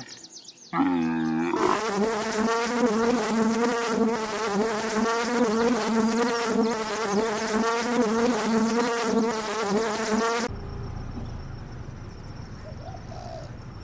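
A flying insect buzzing, a steady, wavering hum lasting about nine seconds. It cuts off suddenly to a quiet background hiss. A short animal call comes just before the buzz.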